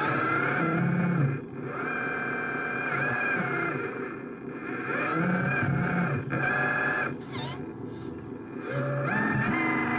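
Small electric motors of RC construction models whining, their pitch rising and falling as they speed up and slow down, with quieter gaps about a second in, around four seconds and near eight seconds.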